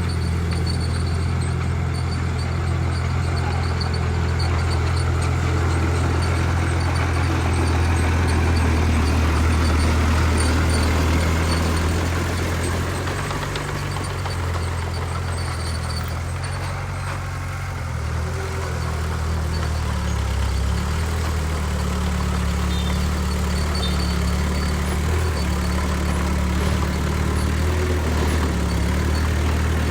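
Heavy diesel earthmoving machinery working: a steady, loud, low engine drone that shifts in pitch a couple of times, with a slight dip in loudness around the middle.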